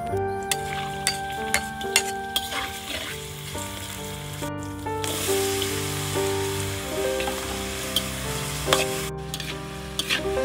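Diced vegetables sizzling in hot oil in a large steel wok, the sizzle louder from about halfway through as they go in, with sharp clicks of a metal spatula against the pan. Background music with piano-like notes plays throughout.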